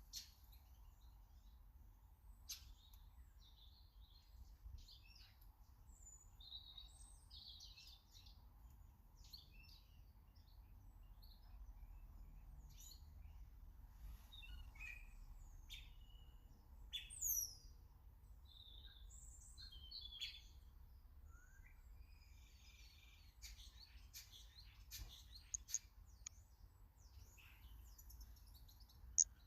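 Small garden birds chirping and calling in short, scattered high notes, with a pair of louder high falling whistles about halfway through. A few sharp clicks come near the end.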